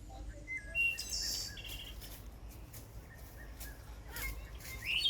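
Wild birds chirping and calling, with a burst of short high calls about a second in and a quick rising call near the end, over a steady low rumble and a few soft clicks.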